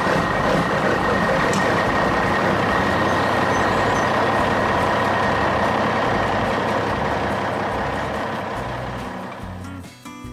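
Heavy truck sound effect: a steady rushing, mechanical noise with a thin high whine, fading out near the end.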